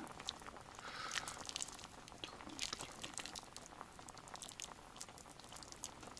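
Faint, irregular crackling and small clicks from a pot of plov simmering on a wood stove, just topped up with boiling water.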